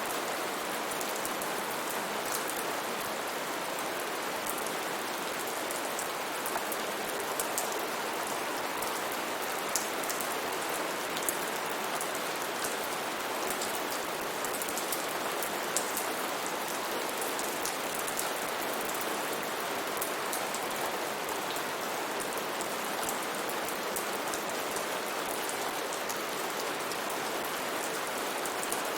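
Steady rain falling on a surface, an even hiss with scattered drops ticking sharply.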